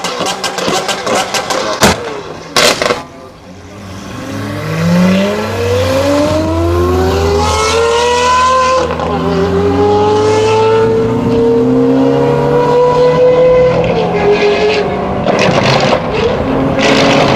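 A car's engine and exhaust accelerating hard away, its note climbing in pitch through the gears with upshifts about 9 and 14 seconds in. Before that, about the first three seconds hold rough crackling with a few sharp cracks.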